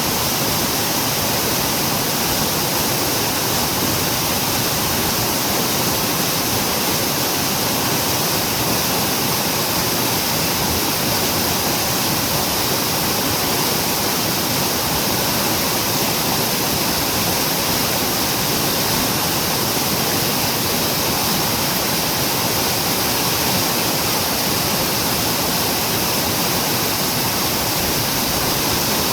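Rain-swollen mountain stream rushing hard over rocks, a loud, steady roar of white water.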